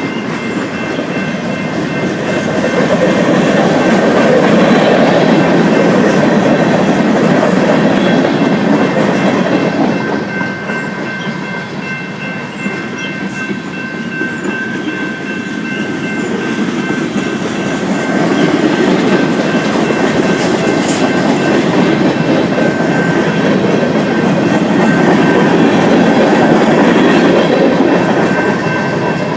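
A train's cars rolling past on the rails, a steady rumble with the wheels clacking over the rail joints. It swells and eases a few times, with faint steady high-pitched tones running through it.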